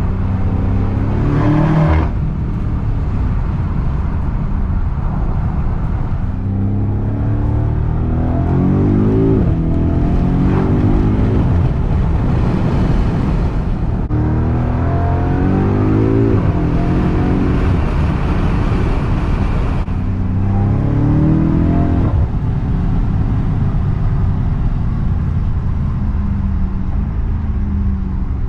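BMW M5 Competition's twin-turbo V8 exhaust idling with four throttle revs, each rising in pitch and then falling back to idle; the first is brief, the other three longer.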